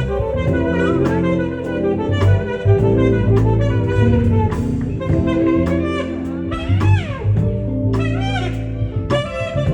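Live smooth-jazz performance: a saxophone plays the melody over a bass line and a drum kit keeping a steady beat, with a couple of sliding, bent notes in the second half.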